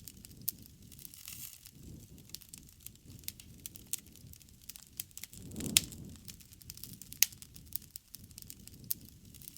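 Wood campfire crackling, with frequent sharp pops over a low, uneven rushing. A little past the middle the rushing swells and the loudest pop comes.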